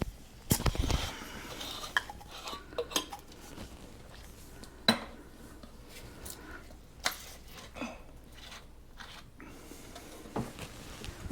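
Irregular clinks, clicks and knocks of hard parts and tools being handled during drain pipe work under a sink, with a short rattling clatter near the start and one sharp knock about five seconds in.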